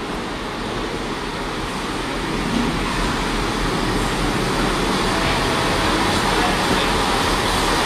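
Arriva Trains Wales Class 158 diesel multiple unit running into the platform, its engine and wheels on the rails making a steady noise that grows gradually louder as the train draws alongside.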